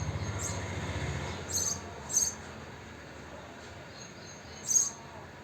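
House sparrows chirping: four short, sharp chirps spaced out, the loudest near the end. A low rumble underneath fades out about a second in.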